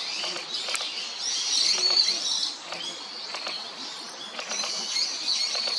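Small birds chirping and twittering in quick high notes, with scattered short sharp clicks.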